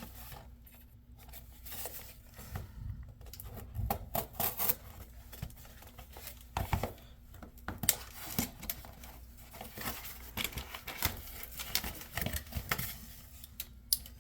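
Packing tape being cut and ripped off a cardboard box, with irregular scraping, tearing and crinkling of the packaging as it is opened.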